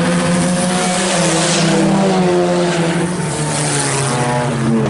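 Several IMCA Sport Compact race cars' four-cylinder engines running hard as the field laps the track. Their overlapping engine notes rise and fall in pitch as the cars change throttle and pass by.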